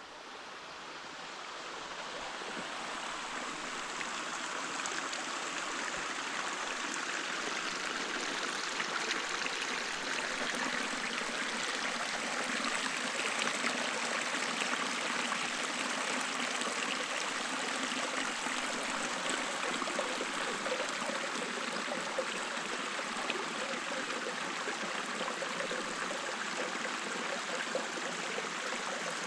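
Small mountain spring stream running and trickling over rocks, a steady splashing, gurgling water sound that fades in over the first few seconds.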